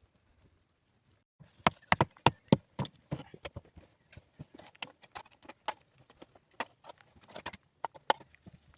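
An irregular run of sharp knocks and clicks, starting about a second and a half in, several a second at first and then thinner and quieter.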